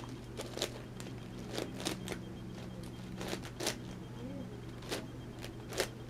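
Plastic layers of an 11x11x11 Rubik's cube being turned by hand: irregular sharp clicks and clacks, about ten over the few seconds, over a steady low hum.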